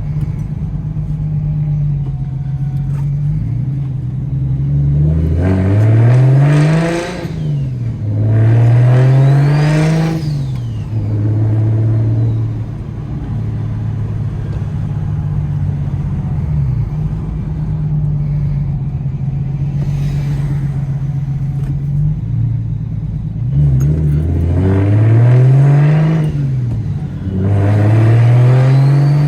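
BMW 335i's N54 3.0-litre inline-six with a DocRace single-turbo conversion, driving at a steady drone and then pulling hard twice. Each pull runs through two gears, the engine note rising steeply and dropping at each upshift, about five seconds in and again about 23 seconds in.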